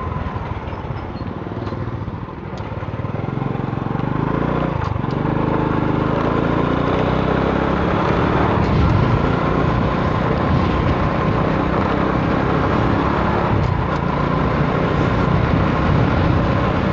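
Motorcycle engine running at riding speed with strong wind rushing over the microphone. About five seconds in, the engine picks up with a rising pitch.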